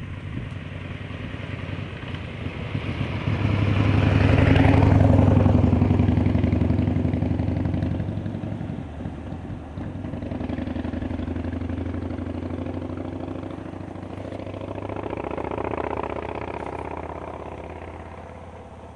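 Motor vehicles driving past with their engines running. The first grows loud and peaks about four to six seconds in, and a second, quieter one swells and fades away toward the end.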